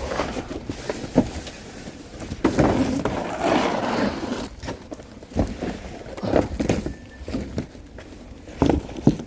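Irregular knocks and thumps, with a stretch of rustling and scraping a few seconds in.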